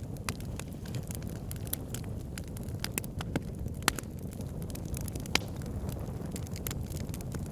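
Wood fire burning in a fireplace: a steady low rumble of flames with irregular sharp crackles and pops, two louder pops about four and five and a half seconds in.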